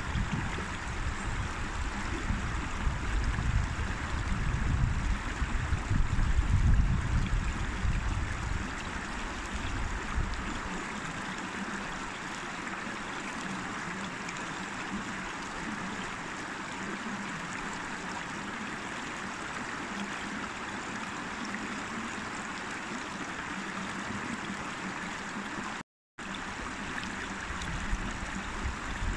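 River water flowing steadily, an even rushing sound, with a low rumble under it for the first ten seconds or so. The sound cuts out completely for a split second near the end.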